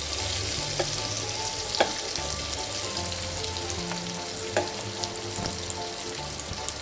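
Chicken pieces with sliced onions and green chillies sizzling in hot oil in a pan as they are stirred. The spoon knocks sharply against the pan three times.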